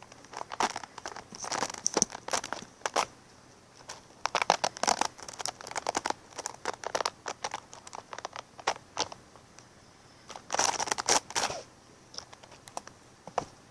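Close-up crinkling and scratching in irregular bursts, made up of quick clusters of sharp crackles, with the longest burst about eleven seconds in.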